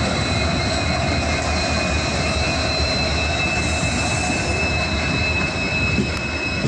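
Passenger train running, heard from inside a sleeper coach: a steady rumble and rush of the coach on the track, with a continuous high-pitched squeal of steel wheels against the rails held in two steady tones.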